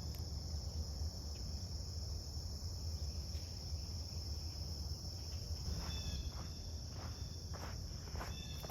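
Steady, high-pitched drone of an insect chorus, unbroken throughout, with a few footsteps on the dry creek bed in the second half.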